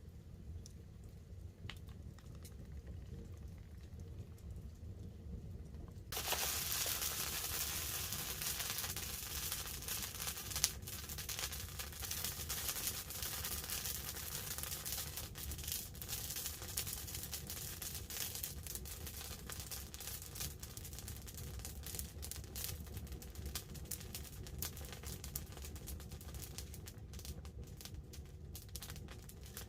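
Wood campfire crackling, with light rain pattering on a tarp overhead. About six seconds in, a dense hiss sets in abruptly and the crackling turns busier, then slowly eases off.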